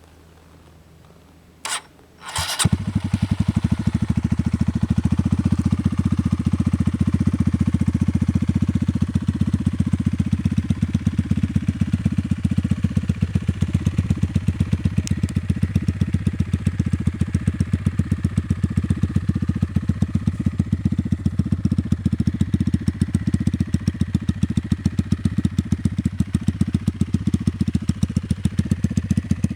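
Sachs MadAss motorcycle's 125cc Honda engine starting: two short cranking bursts, then it catches about two and a half seconds in and settles into a steady idle with an even firing beat.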